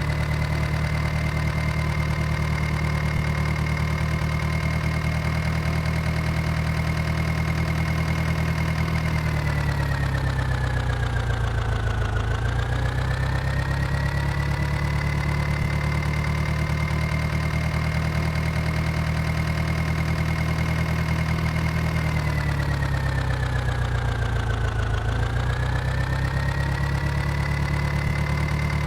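Diesel engine running steadily, its speed sagging twice for a few seconds, about a third and about four fifths of the way through, then climbing back.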